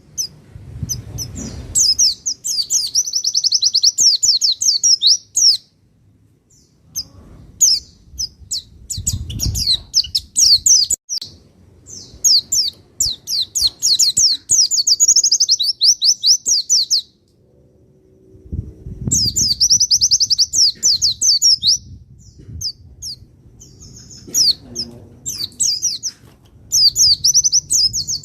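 Pleci (white-eye) singing: long, rapid, twittering trilled phrases of high notes, each lasting a few seconds with short pauses between, recorded as masteran song for training caged white-eyes. A few dull low rumbles sit under the song.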